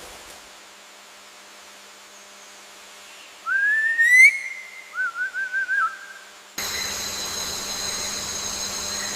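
A bird's whistled call: one rising whistle, then a quick run of short wavering notes a second later. Near the end a louder, steady high-pitched forest drone cuts in suddenly.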